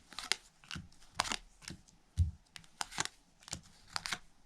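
Playing cards being dealt and laid out onto a table: an irregular run of quick snaps and flicks, several a second, with one soft thump a little past two seconds in.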